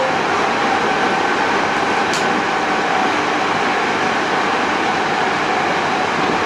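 Running noise inside a Hankyu 8000 series electric train car (Toshiba GTO-VVVF set) moving at steady speed: an even rumble of wheels on rail with a faint steady tone and one small click about two seconds in.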